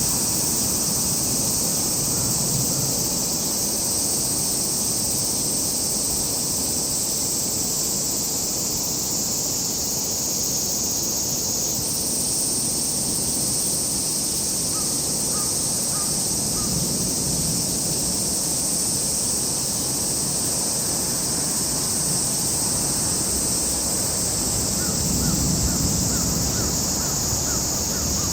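Crows cawing in short runs of repeated calls, twice in the second half, over a steady high-pitched drone and a low outdoor rumble.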